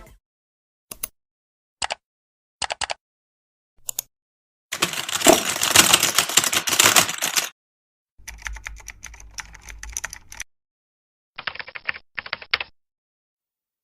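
Stock sound effects of a computer: a few short single mouse clicks spaced about a second apart, then three separate takes of rapid keyboard typing, each cut off cleanly into silence.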